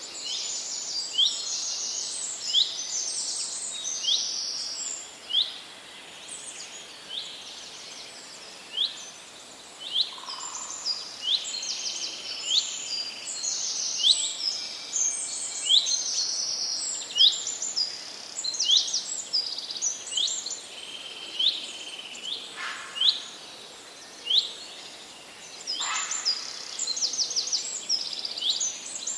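Several forest songbirds singing together: short sharp swept notes repeating about once a second, mixed with fast high trills, over a faint steady background hiss.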